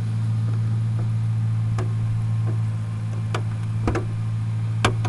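Dodge Magnum R/T's 5.7-litre Hemi V8 idling steadily, a constant low hum, with a few light clicks over it.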